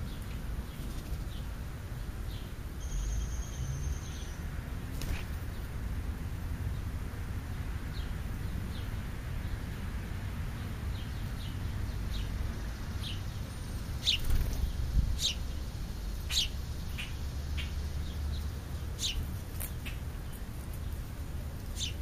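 Small birds chirping: scattered short, high, downward chirps, coming more often in the second half, over a low steady rumble.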